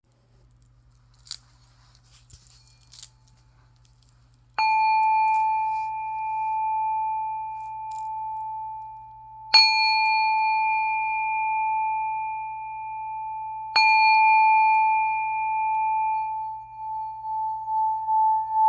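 Singing bowl struck three times, about five and four seconds apart, each strike ringing on in one long, steady tone. Near the end the ringing swells and pulses. A few faint clicks come before the first strike.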